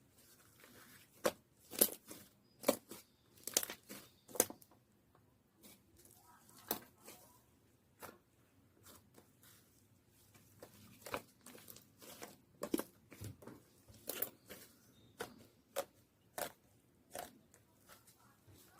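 Slime being worked by hand, giving irregular sticky pops, crackles and tearing sounds, several in quick succession now and then.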